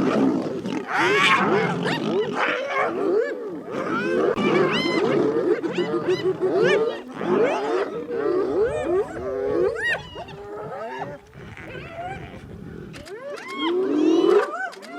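A pack of spotted hyenas calling over one another in a fight with lions: many short whoops and cackles that rise and fall, mixed with lion growls and snarls. The clamour thins out and drops in level about two-thirds of the way through, then swells again near the end.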